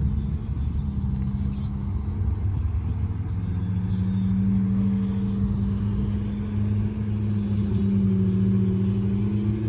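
Car engine running at low revs, a steady low drone that grows a little stronger midway.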